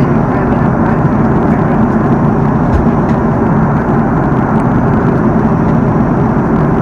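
Steady cabin noise of an Airbus A330-300 airliner in flight: an even, unbroken rush of engine and airflow noise, strongest in the low and middle range.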